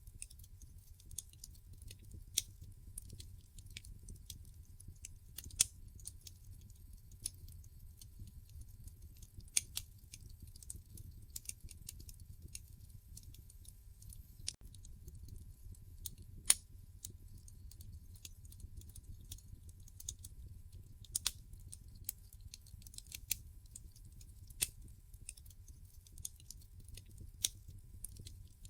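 Wood fire burning in a fireplace, crackling: sharp pops and snaps at irregular intervals over a low steady rumble, the loudest pop about sixteen seconds in.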